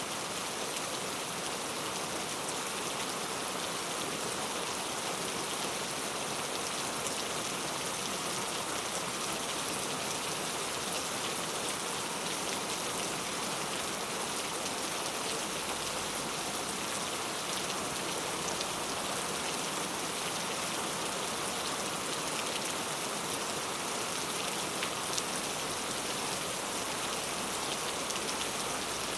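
Heavy rain falling steadily, a dense even hiss of drops striking hard surfaces, with faint scattered ticks of individual drops.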